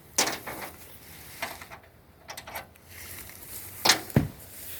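A few scattered knocks and clunks, the two loudest close together about four seconds in.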